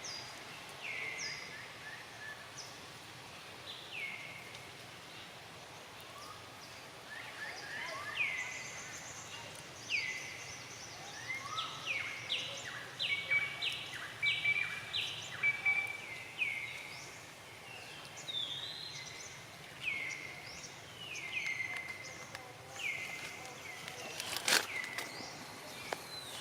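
Repeated short, high-pitched calls, each gliding downward, coming in irregular runs over a steady background hiss, with one sharp click near the end.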